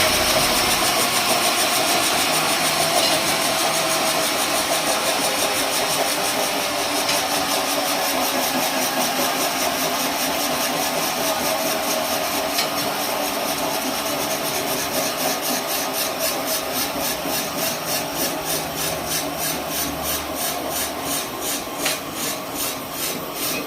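An engine running steadily, with an even hiss over it. From about halfway through, a regular pulsing of a few beats a second becomes stronger.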